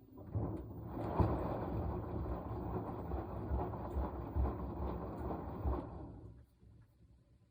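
Washing machine agitating its load in a burst of about six seconds, with a churning hiss and repeated low thuds, then stopping: one stroke of the stop-start wash cycle.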